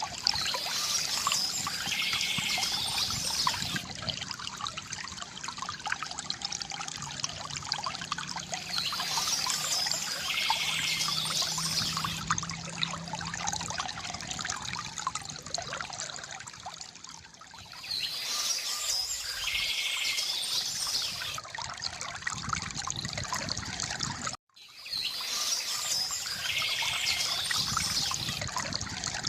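River water gurgling and trickling steadily, with a bird's chirping song repeating about every nine seconds over it. The sound cuts out for a moment about three-quarters of the way through.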